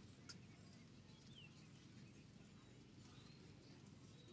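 Near silence: faint open-air background with a low steady rumble, and a few faint bird chirps, including a short falling chirp and a higher rising-and-falling one.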